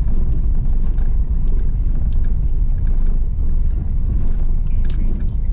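Car driving on a rough off-road track, heard from inside the cabin: a steady low rumble of engine and tyres with scattered small knocks and rattles.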